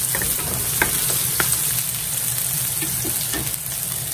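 Sliced onion and garlic sizzling steadily in hot oil in a nonstick frying pan, with three short clicks from a wooden spatula stirring them in the first second and a half.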